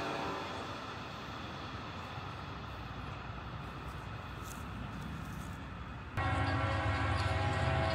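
Rumble of a freight train pulling away past a grade crossing, slowly fading. About six seconds in, it cuts suddenly to a diesel locomotive horn sounding a steady chord over a low engine rumble.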